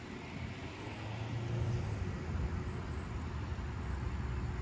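Amtrak passenger train running past with a low rumble that builds over the first second or so and then holds steady.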